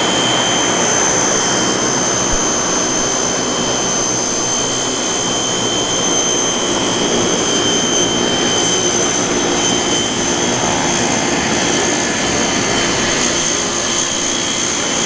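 Vintage T-6 Texan trainers' Pratt & Whitney R-1340 Wasp radial engines and propellers droning steadily as the formation flies by.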